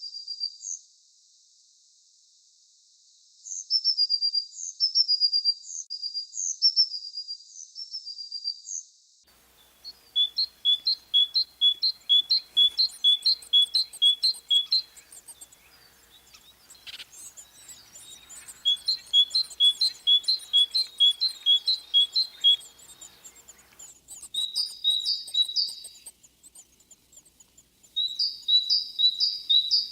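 Recorded birdsong from songbirds. A bird sings short phrases of high notes, then after a cut a bird repeats even notes about three a second in long runs, with fainter bird calls higher up.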